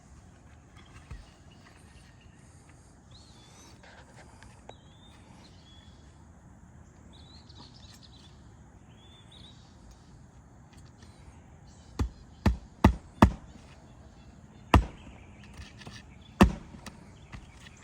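Nails being driven into a replacement asphalt roof shingle: six sharp impacts starting about twelve seconds in, four in quick succession and then two more spread out. Faint bird chirps before the strikes.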